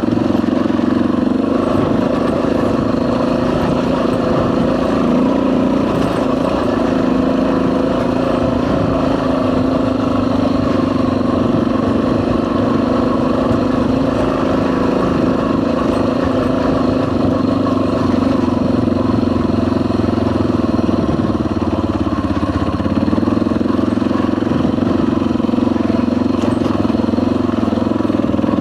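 Dual-sport motorcycle engine running steadily while under way, its note shifting slightly a little over twenty seconds in.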